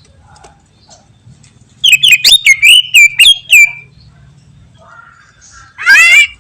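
Green leafbird (cucak ijo) singing: a quick run of sharp, rapid notes that ends in a held whistle, then a short, harsh, wavering call near the end.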